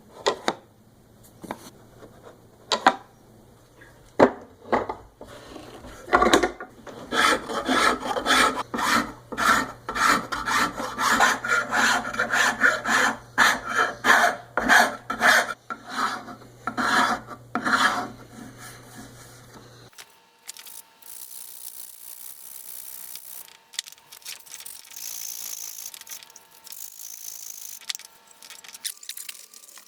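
Hand strokes of an abrasive such as sandpaper or a rasp being worked back and forth over a wooden piece, quick and rhythmic at about two strokes a second for most of twenty seconds, over a low steady hum. It stops abruptly and gives way to a quieter, steady hiss.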